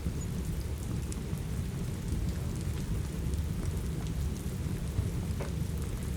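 Steady rain over a continuous low rumble, with scattered small pops and crackles of a wood fire burning in a fireplace, one a little stronger near the end.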